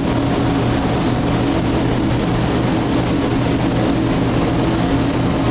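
A loud, steady mechanical drone with a low hum that holds an even level throughout, like a ventilation or refrigeration fan motor running.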